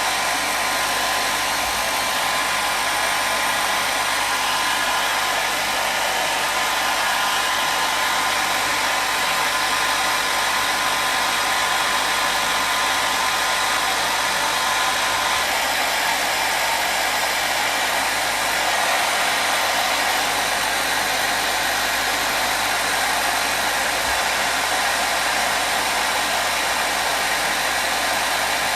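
Hair dryer running steadily: an even, continuous whoosh of blown air with a faint motor whine.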